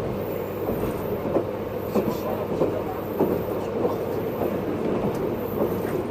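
JR 583 series electric train heard from inside motor car MoHaNe 582-106 while running at speed: a steady rumble of traction motors and wheels on rail, with scattered clicks as the wheels pass rail joints.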